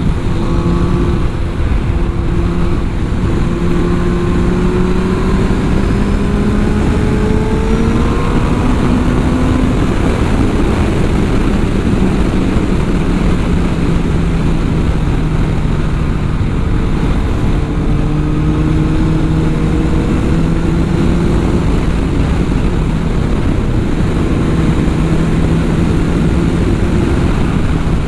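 2003 Yamaha FJR1300's inline-four engine pulling the bike up a road, its revs climbing over the first ten seconds or so, then dropping back and holding fairly steady. Heavy wind rush on the helmet microphone runs under it.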